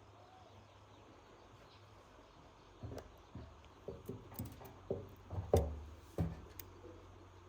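A quiet background, then a run of about eight irregular knocks and clicks over a few seconds, the loudest a little past the middle.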